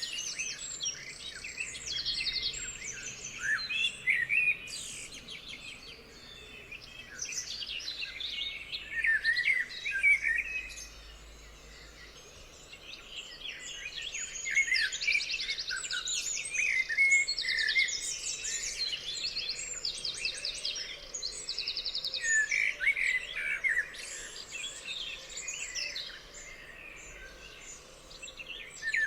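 Several songbirds singing and calling over one another: short chirps, whistled phrases and fast trills, with a brief lull about midway.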